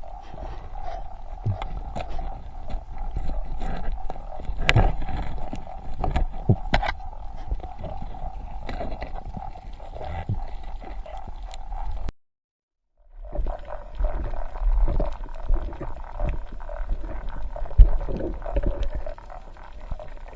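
Muffled underwater sound through a camera housing: a low rumble and a steady hum with many sharp clicks and crackles. It drops to silence for about a second near the middle.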